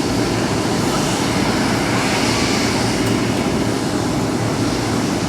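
Jet airliner engines: a steady, even rumble with no distinct tones or breaks.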